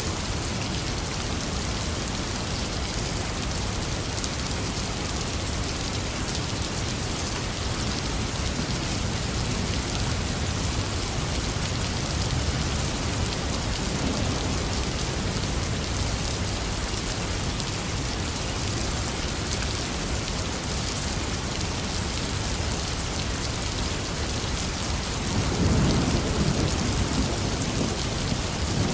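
Heavy rain falling steadily, with thunder rumbling low underneath; a louder roll of thunder comes near the end.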